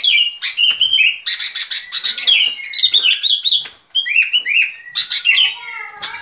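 Bulbul (Vietnamese bông lau) singing a rapid run of clear, chirpy phrases, many notes sliding down in pitch, with a short pause about two-thirds of the way through; a lure song used to call the birds in for trapping.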